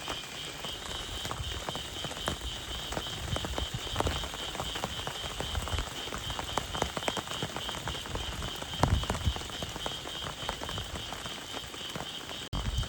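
Heavy rain falling, with many close drops striking sharply over a steady hiss. A steady, pulsing high trill runs underneath, like a chorus of frogs calling in the rain. A few low rumbling swells come through around the middle.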